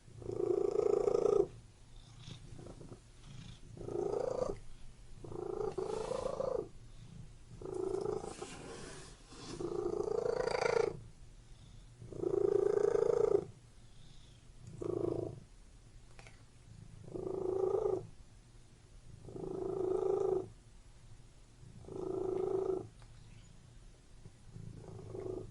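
Domestic cat purring close up, the purr swelling louder with each breath about every two to two and a half seconds and dropping to a softer rumble in between.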